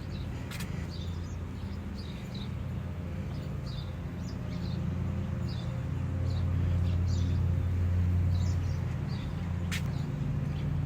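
Small birds chirping with short, high calls repeated every second or so, over a low steady rumble that grows louder about six seconds in and fades after nine. A couple of sharp clicks.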